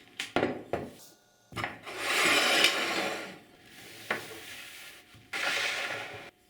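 Hand rubbing or scraping on a workpiece, like sanding or filing: a few light knocks first, then two long scraping strokes with a softer rubbing stretch between them.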